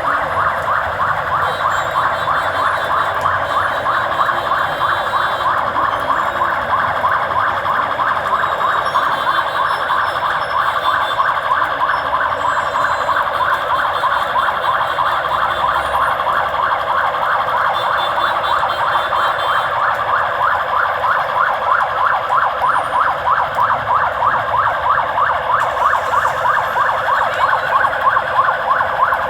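Emergency-vehicle siren sounding without a break, a fast yelp of quickly repeated rising wails.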